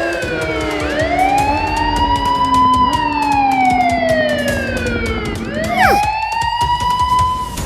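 Wailing emergency-vehicle siren, its pitch sliding slowly down and back up in long repeating sweeps, with a lower tone beneath gliding gently downward.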